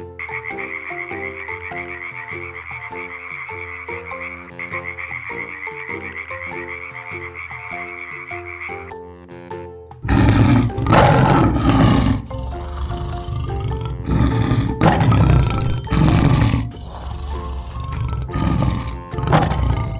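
A frog croaking in a rapid pulsing trill over background music. About ten seconds in it gives way to a lion roaring in several loud bursts.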